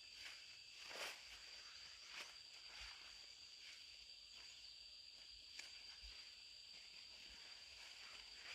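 Faint, steady high-pitched insect drone with a few soft rustles or footsteps now and then.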